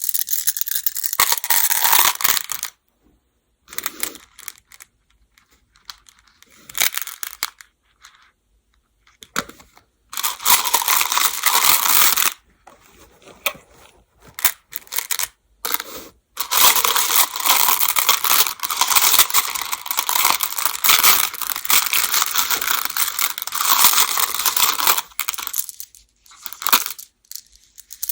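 Baduk (Go) stones clattering against one another in several bursts of rattling, separated by short pauses; the longest run lasts about nine seconds near the end.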